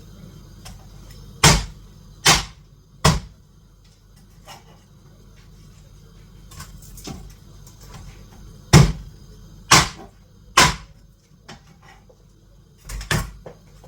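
Heavy chops of a knife through chicken onto a cutting board: three strokes in quick succession, a pause, three more, then a closely spaced pair near the end.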